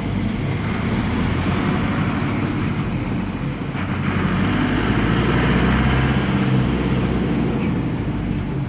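Air-cooled Deutz F4L912 four-cylinder diesel of an Otokar M-2000 minibus running steadily as the bus drives, heard from inside the cabin, with road noise underneath.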